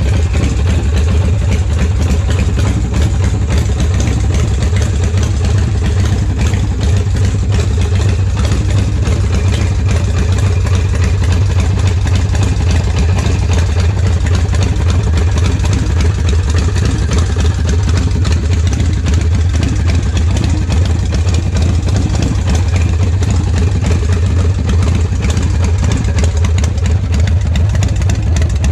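The V-twin engine of a 2003 Vengeance Warrior softail chopper idling steadily.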